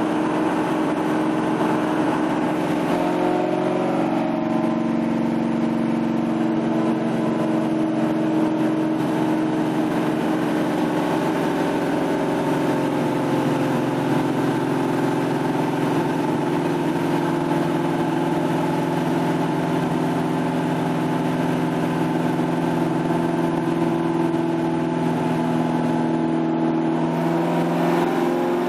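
Cammed LS3 6.2-litre V8 in a C5 Corvette running at a steady speed on a chassis dyno, holding one even engine note rather than making a pull. Near the end the pitch begins to shift.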